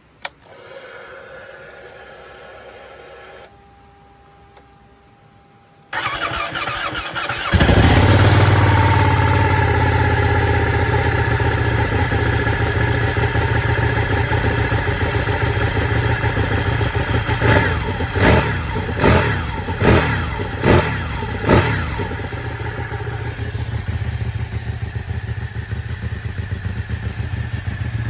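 Ducati 1199S Panigale's Superquadro V-twin being started: a click and a few seconds of faint steady hum, then the starter cranks about six seconds in and the engine catches about a second later into a loud, lumpy fast idle. About ten seconds later it is blipped six times in quick succession, then settles back to idle; the low-mileage engine (about 1300 km) runs without any abnormal noise.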